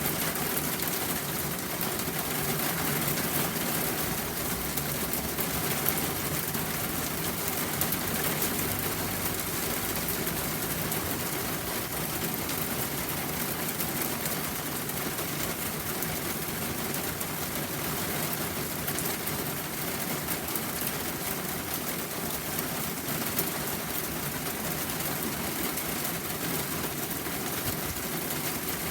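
Steady rain falling: an even, unbroken hiss with no separate events.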